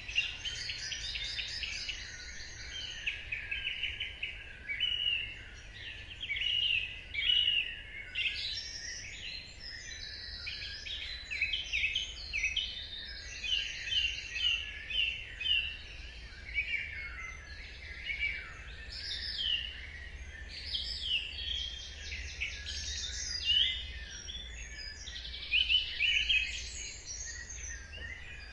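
Dawn chorus: many songbirds singing at once, with overlapping chirps, trills and short whistled phrases in a steady stream. A faint, steady low rumble runs underneath.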